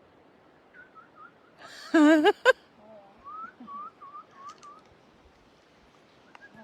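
A person whistling a string of short bird-like notes, with a loud warbling call about two seconds in, mimicking birdsong.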